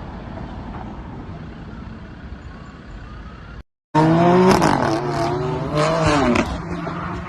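Steady car road noise. After a short break about three and a half seconds in, a much louder passage of vehicle sound follows, with wavering high squeals over a steady low hum.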